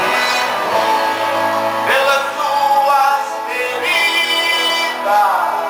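A man singing a gospel song with guitar accompaniment, holding and bending long notes.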